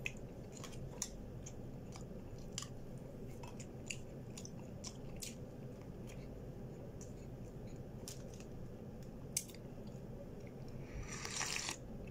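Close-up mouth sounds of a person chewing soft Arabic flatbread (khubz) and scrambled egg, with scattered small clicks and smacks. Near the end comes a short slurp of coffee.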